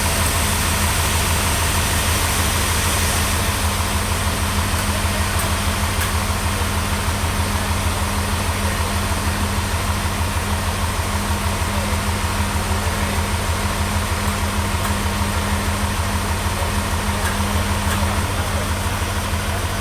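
An engine idling steadily, a low, even drone with a fast, regular pulse.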